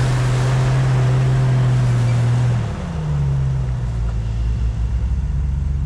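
Jeep engine running steadily under load while driving through snow. About two and a half seconds in the revs fall and the engine note glides down to a lower steady pitch.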